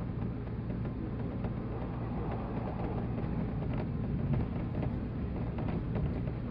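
Running noise of a JR 185 series electric train heard from inside the carriage: a steady low rumble with a few faint clicks.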